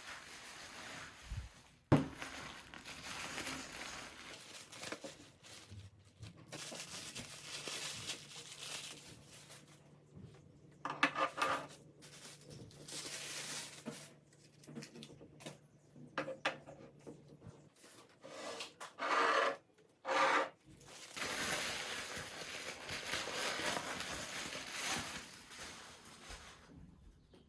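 Household handling sounds: irregular rustling and rubbing with a few light knocks and clinks as objects are moved, and one sharp click about two seconds in.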